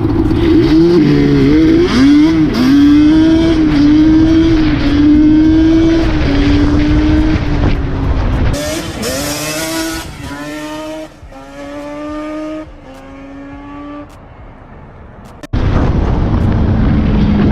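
Nissan 350Z's V6 engine through a loud aftermarket exhaust, revving and running hard with the pitch swinging up and down. About ten seconds in, the car accelerates away through several gears, the pitch climbing in each gear and fading with distance. Near the end the sound cuts abruptly to a loud, rushing noise.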